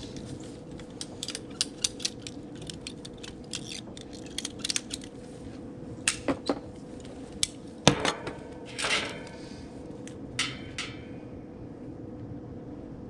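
Irregular small metallic clicks, taps and clinks of hand tools and parts being handled during a condenser fan motor swap, with one sharper knock about eight seconds in and a brief rattling scrape just after. A faint steady hum of one pitch sits underneath.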